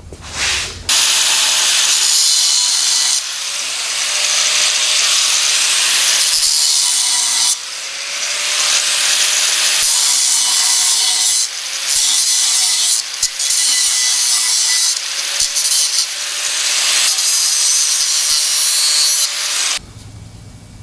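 Angle grinder with a thin cut-off wheel cutting through steel exhaust tubing. The loud, harsh grind runs in long passes with several brief let-offs and stops suddenly near the end.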